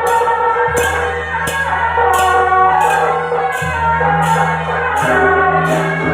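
Temple-procession band music: percussion crashes on a steady beat, about three every two seconds, under a held, pitched wind-instrument melody, with a steady low hum underneath.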